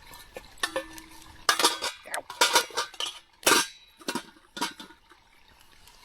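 Metal utensil clinking and scraping against metal cookware, a run of several scrapes in the middle with sharp clicks before and after.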